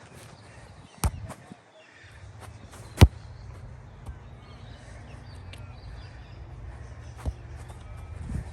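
Soccer ball being kicked: three sharp thuds, about a second in, at about three seconds (the loudest) and again at about seven seconds, over a steady low rumble.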